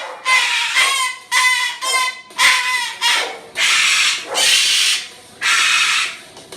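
Moluccan cockatoo calling loudly: a quick run of about six short pitched calls, then about three longer, harsh screeches.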